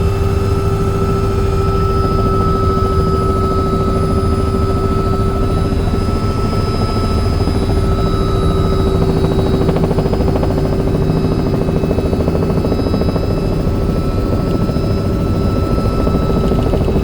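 Helicopter turbine engine and rotor running steadily, a loud low rapid beat of the blades with a constant high whine over it.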